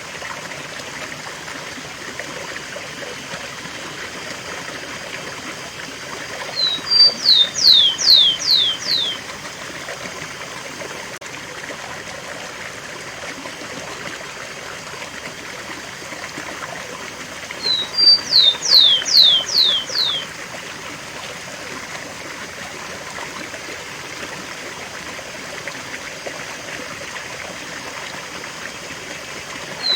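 Rufous-collared sparrow (tico-tico) singing its 'cemitério' song twice over a steady rush of stream or waterfall water. Each song is two short high notes followed by four loud, falling slurred whistles, and another song starts right at the end.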